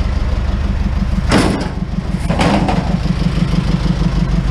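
Truck engine idling steadily with a low, even rumble, with two brief noises over it, about a second and a half in and again about a second later.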